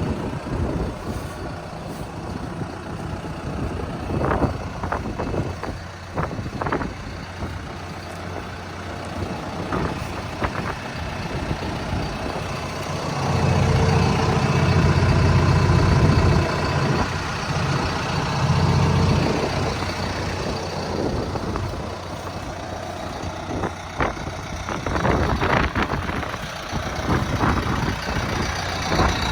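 2011 John Deere 6115D tractor's diesel engine running, rising to a louder, heavier run for about six seconds midway, with scattered short knocks and clatter.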